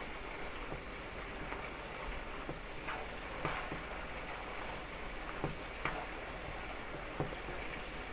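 Beef steak strips sizzling steadily in a hot pan with soy sauce, with a few short sharp clicks scattered through the sizzle.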